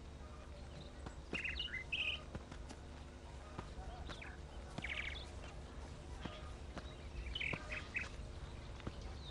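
Small birds chirping in short, scattered calls a few seconds apart, over a faint steady hum.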